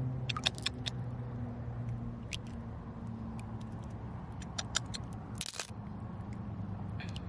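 Small stones clicking and scraping as they are handled, over a steady low hum, with one short, louder rush of noise about five and a half seconds in.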